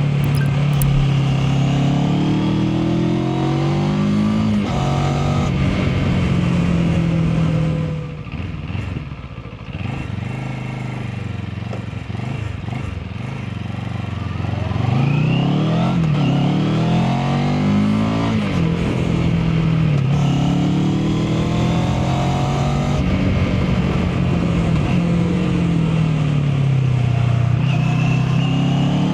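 Mash FR 750 motorcycle engine and exhaust under way, revving up and dropping back at each gear change. About eight seconds in it falls back to a quieter, lower note. From about fifteen seconds it pulls hard again with repeated rising revs.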